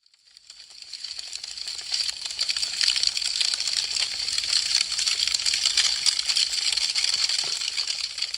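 Wood fire crackling: a dense, rapid patter of small crackles and pops. It rises from silence over the first couple of seconds and eases off near the end.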